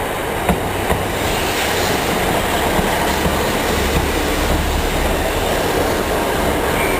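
Class 150 diesel multiple unit running along the track with a steady rumble. A couple of sharp wheel clicks come about half a second and a second in.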